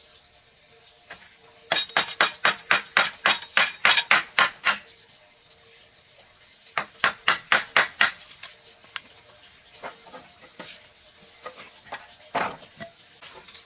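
Two quick runs of hammer blows on wood, about five or six a second, the first lasting about three seconds and the second a little over one, then a single blow near the end. A steady high-pitched hum runs underneath.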